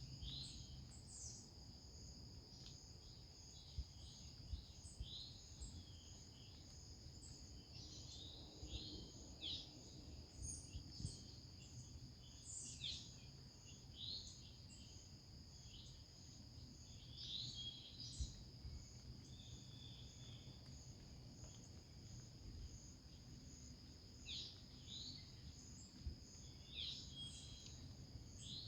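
Outdoor nature ambience: insects keep up a steady high-pitched trill, and small birds give short chirps now and then throughout, over a faint low rumble.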